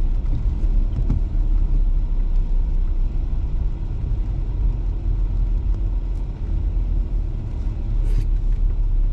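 Porsche Cayenne SUV driving slowly while towing a small camper trailer: a steady low rumble of engine and tyres.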